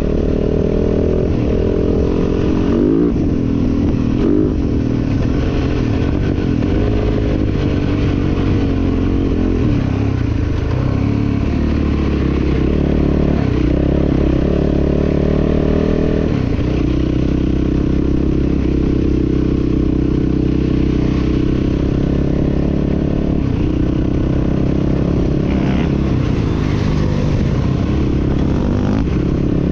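Dirt bike engine running continuously under riding load, its pitch rising and falling several times with the throttle.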